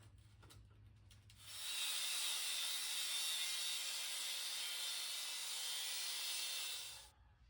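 Angle grinder cutting into 1/8-inch steel plate: a loud, steady, high hissing cut that starts about one and a half seconds in and stops suddenly near the end, after a couple of light clicks.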